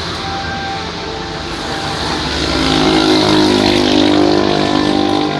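A motor vehicle's engine running nearby, growing louder about halfway through and easing slightly near the end.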